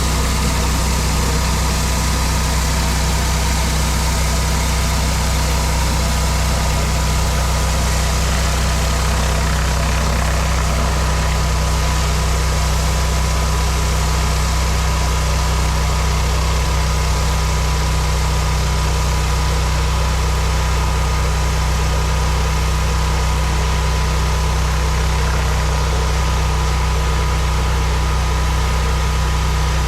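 Gas-engine pressure washer running steadily at constant speed, with a steady hiss from the spray over its low engine hum.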